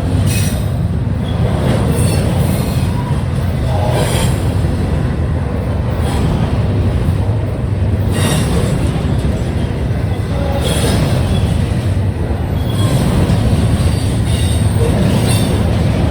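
Union Pacific double-stack intermodal train rolling past: a loud, steady rumble of wheels on rail, with a sharp clack every couple of seconds.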